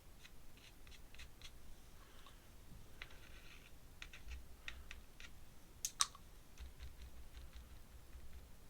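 Faint scattered clicks and taps of watercolour painting tools on a desk as paint is dabbed onto an ink drawing, with a short scratchy rustle a couple of seconds in and a sharper double click about six seconds in.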